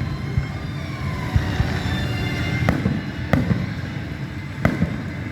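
Fireworks display: several sharp bangs of shells bursting, the clearest in the second half, over a continuous low rumble of further launches and bursts.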